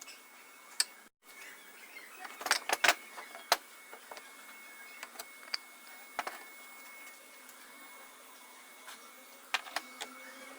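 A few sharp knocks and clicks of wooden pieces and tools being handled on a workbench, the loudest cluster about two and a half seconds in, over a faint steady high whine.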